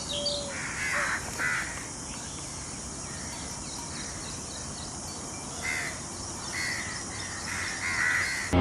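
Crows cawing: two harsh caws about a second in, then a run of four more toward the end, over steady outdoor hiss.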